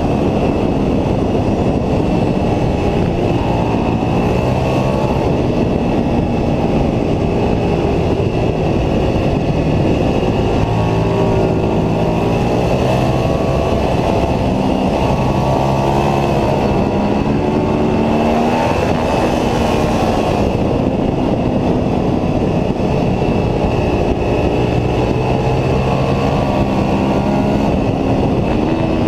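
Ducati 749S's V-twin engine under hard acceleration on track. The pitch climbs through each gear and drops at every shift, over a steady rush of noise.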